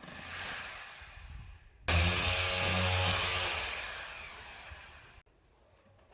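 Electric drill running: a lighter run, then from about two seconds in a louder, steady motor whine that fades and cuts off near the end.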